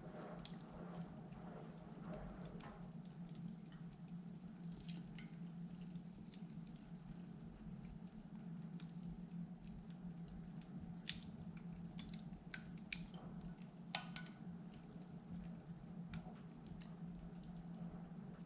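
Firewood burning in a wood-burning fireplace with its door left open, crackling with irregular sharp pops, the loudest about 11 and 14 seconds in, over a steady low hum.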